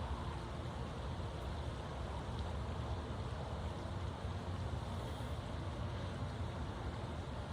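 Steady low outdoor rumble with no distinct events: a constant background drone heaviest in the bass, with a faint hum.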